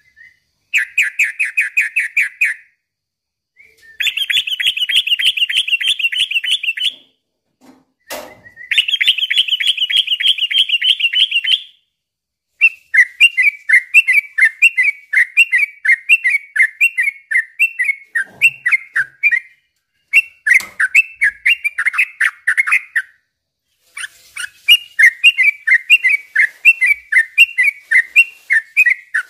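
Sooty-headed bulbul (trucukan) singing in loud bursts: a fast trill, then two long rattling trills of about three seconds each, then runs of quick repeated chirping notes broken by short pauses. A single click a little after eight seconds.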